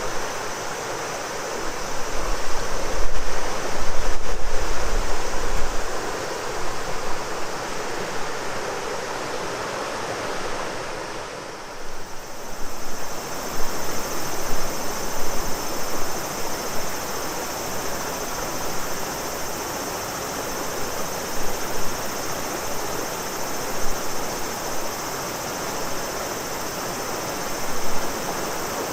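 Shimanto River flowing with a steady rush of water, under a continuous chorus of cicadas droning high. A few seconds in, gusts of wind buffet the microphone.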